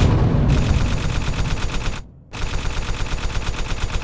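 Fireworks crackling in fast, continuous pops, like a string of firecrackers, with a brief break about two seconds in.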